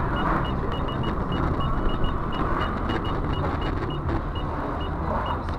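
A motor vehicle running with steady road noise, and a short high electronic beep repeating irregularly, several times a second.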